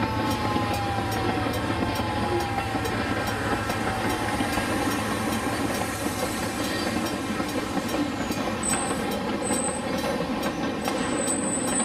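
Train running, a steady rumble with an even run of rail clicks, and a few short, high wheel squeals near the end.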